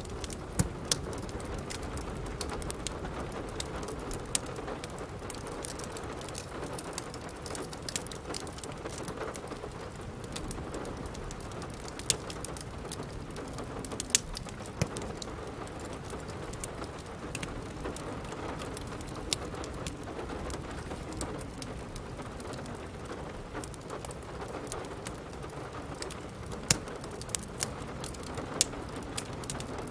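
Steady rain falling on a surface, with scattered sharp pops and crackles from a wood fire in a fireplace.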